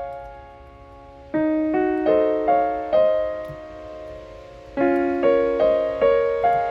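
Solo piano music: groups of single notes struck about half a second apart and left to ring, with a pause of about a second and a half between groups.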